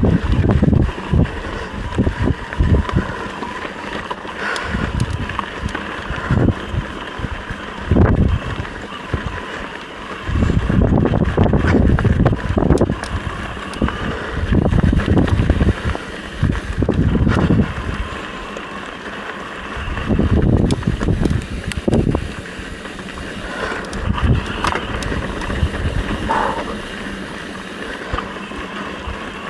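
Wind buffeting the microphone in irregular gusts over a steady background rumble.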